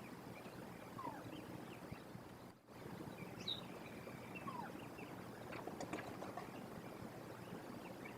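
Steady outdoor hiss from a nest-box microphone, with faint scattered bird chirps and a brief gap about two and a half seconds in.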